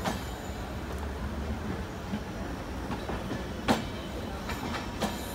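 LHB passenger coaches rolling past on the rails with a steady rumble of wheels on track. A sharp clack sounds right at the start and a louder one a little before four seconds in, with a few fainter clicks after, as the wheels cross rail joints.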